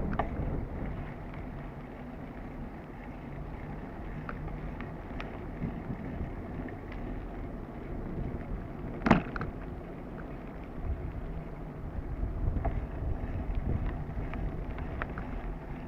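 Bicycle ridden along a dirt trail, heard from a camera on the bike: a steady low rumble of tyres and wind on the microphone, with small clicks and rattles and one sharp knock about nine seconds in.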